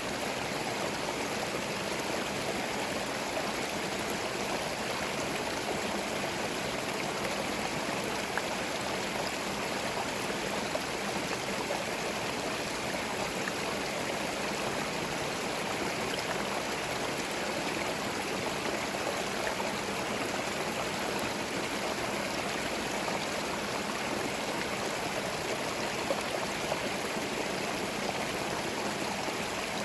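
A forest stream flowing over stones, its water running and gurgling steadily and evenly, with a few faint ticks of splashes.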